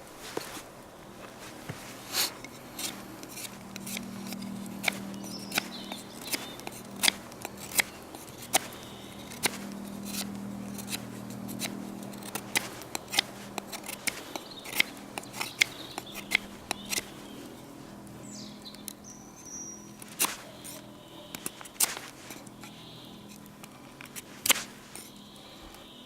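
Many irregular sharp clicks and taps, sometimes several a second, over a faint low hum that swells twice.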